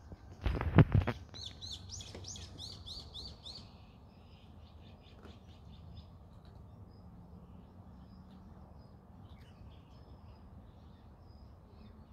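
A songbird calling a quick run of curved, whistled notes, about four a second for two seconds, then fainter scattered chirps. About half a second in, a short low bump is the loudest sound.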